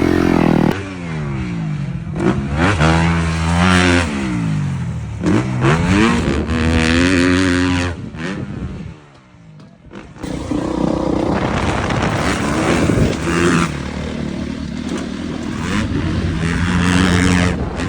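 Dirt bike engine revving hard and shifting through the gears, its pitch climbing and dropping again several times as it accelerates into jumps. It falls away briefly about halfway through, then picks up and revs again.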